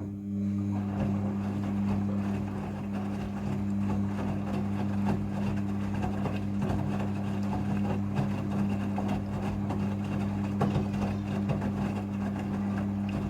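Front-loading washing machine running during a rinse: a steady motor hum over a noisy rush with small irregular knocks. It starts suddenly.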